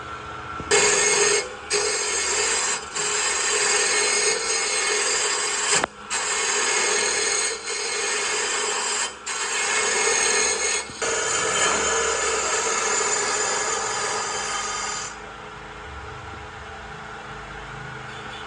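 A tool working wood with a rough rubbing, rasping noise in long passes, broken by several brief pauses. It stops about 15 seconds in, leaving a fainter steady noise.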